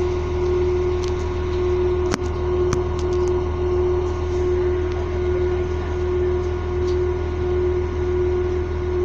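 Steady electrical hum with a low rumble inside an electric passenger train standing still, with one strong even tone and no wheel noise. A brief click about two seconds in.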